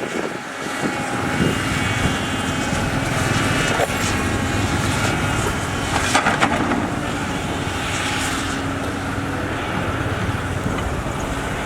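Diesel engines of heavy earthmoving machinery running steadily, with a few short knocks, the loudest about six seconds in.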